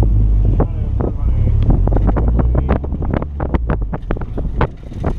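Wind rumbling on the microphone, with a car's engine working through an autocross course in the distance.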